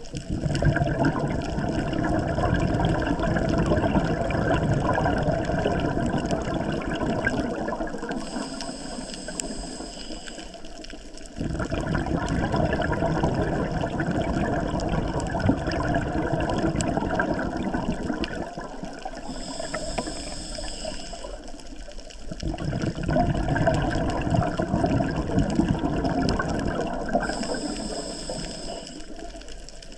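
Scuba diver breathing through a regulator underwater: exhaled bubbles gurgling and rushing for several seconds at a time, with a short hissing inhalation about 8, 19 and 27 seconds in, three breaths in all.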